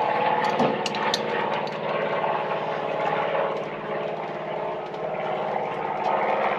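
A steady mechanical drone, like a running motor, with a few light clicks about a second in.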